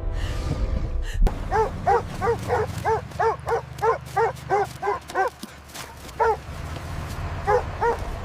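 A dog barking in quick, repeated barks, about three a second, starting about a second and a half in, pausing, then barking again in short runs near the end, over a low steady rumble.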